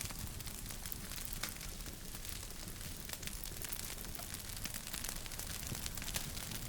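Wood fire crackling: many small, irregular sharp pops over a steady hiss and low rumble.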